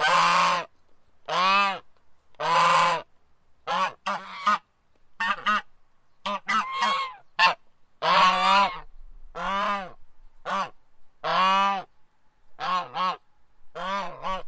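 Domestic geese honking: a string of about a dozen separate honks, each under a second long, some short and clipped and some drawn out, with several coming in quick succession in the middle.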